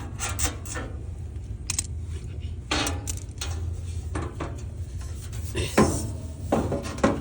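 Metal hand tools clinking and scraping on an AC unit's service valves and fittings, a string of separate clicks and short scrapes over a steady low hum.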